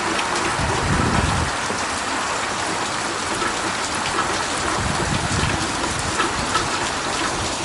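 Heavy rain falling steadily, a dense even hiss, with a low rumble swelling briefly about a second in and again around five seconds.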